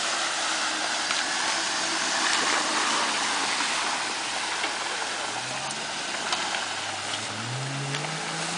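Jeep driving through a creek: water splashing and rushing around the vehicle. From about halfway through, the engine's revs climb steadily.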